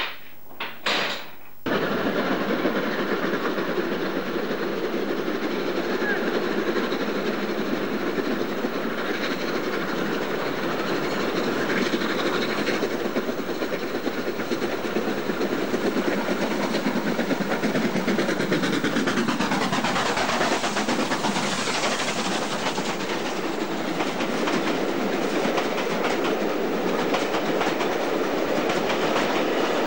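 A signal-box lever is pulled with a couple of heavy clunks. After that comes the steady running noise and clickety-clack of a steam-hauled passenger train, heard from aboard a carriage, with a falling whine about two-thirds of the way through.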